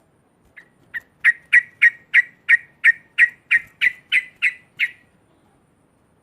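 Yellow-vented bulbul (trucuk) giving its loud chattering 'ngekek' call: a quick run of about fourteen short, sharp notes, about three a second, with the first couple softer, then it stops.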